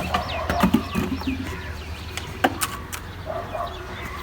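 Young chicks peeping: a run of short, high, falling chirps in the first second or so, fainter ones later. Several sharp clicks or knocks, the loudest about two and a half seconds in, over a steady low hum.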